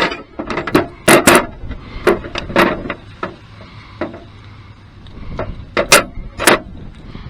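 Metal hand tools being handled: a string of irregular sharp clicks and knocks as a ratchet and 10 mm socket are picked up and worked, bunched at the start and again near the end.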